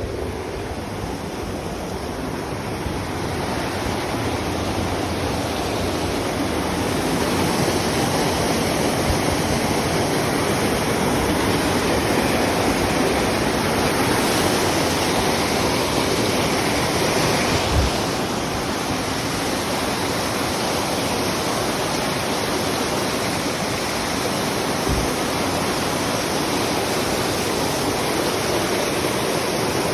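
Waterfall rushing steadily, a dense continuous roar of falling water that swells slightly over the first few seconds. A brief low thump about 18 seconds in and another near 25 seconds.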